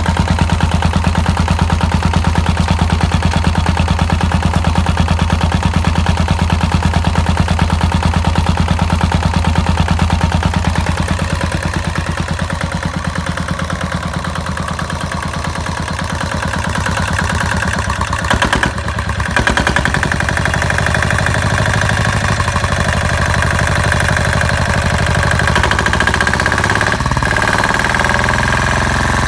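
Farymann 30L30 marine diesel engine running with a fast, even clattering beat. It eases off and runs quieter for a few seconds about halfway through, then picks up again after a brief break.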